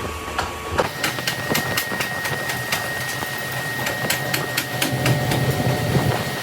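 Factory machine running, with rapid, evenly spaced clicks or strokes, about three to four a second, over a low hum and a thin steady whine.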